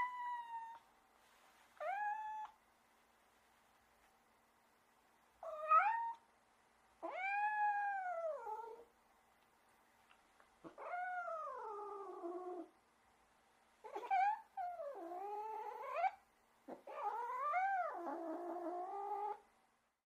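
Domestic cat meowing over and over, about eight drawn-out calls that rise and then fall in pitch, separated by short silences.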